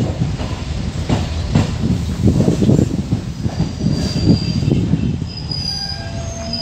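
MEMU electric multiple-unit train running on the track, heard from the coach's open door, with a dense rumble and clatter. It eases as the train slows into a station, and a high squeal sets in from about four seconds as it brakes.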